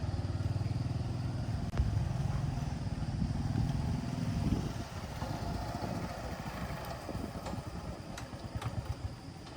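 A small engine running steadily, then fading away about four and a half seconds in.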